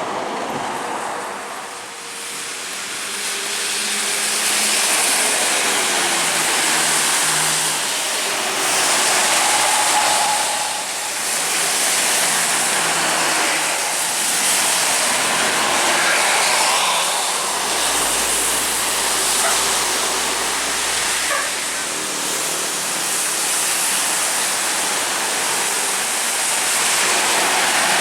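Intercity buses speeding along a rain-soaked road: a steady hiss of tyres and spray on wet asphalt, with engine noise swelling and fading every few seconds.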